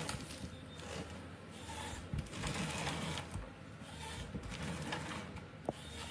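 Forestry harvester at work: its engine runs steadily while repeated surges of hissing noise rise and fall over it, with one sharp click near the end.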